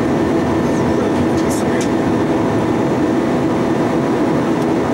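Steady cabin noise of an Airbus A320 in flight: the even rush of airflow and engines, with a few faint steady tones over it.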